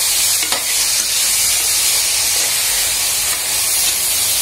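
Onions and freshly added tomatoes sizzling steadily in hot oil in an aluminium pot as they are sautéed and stirred with a metal slotted spoon.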